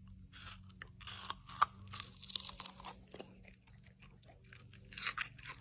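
Crunchy food being chewed: many quick, irregular crunches, over a low steady hum.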